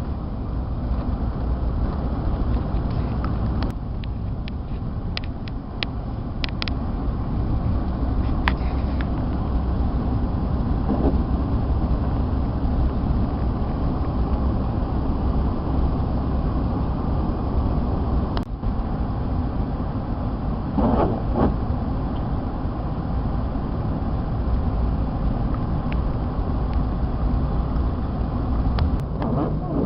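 A motor vehicle driving, with a steady low rumble of engine and road noise and a few brief clicks about five to seven seconds in.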